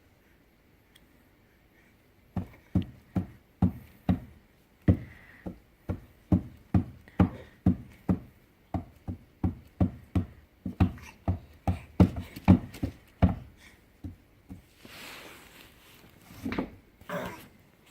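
A baby's hands banging repeatedly on a corner table: a steady run of knocks, about two to three a second, for around eleven seconds, followed by a few softer noises near the end.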